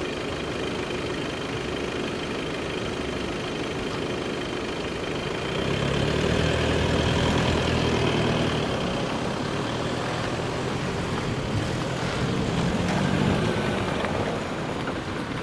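A heavy diesel engine at the level crossing, growing louder about five seconds in and running on as a low steady drone before easing slightly.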